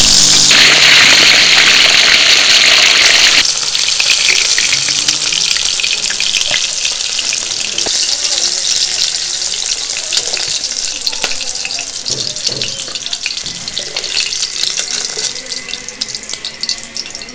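Fish steaks frying in hot oil in a pan: a loud sizzle for the first three seconds or so, then a quieter sizzle with small crackles that slowly dies down.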